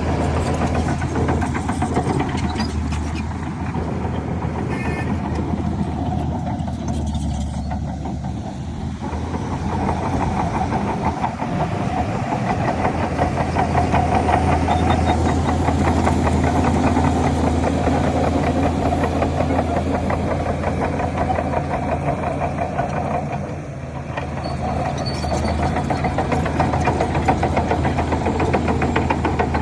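Heavy diesel engine of earthmoving machinery running steadily under load, easing off briefly about eight seconds in and again near twenty-four seconds.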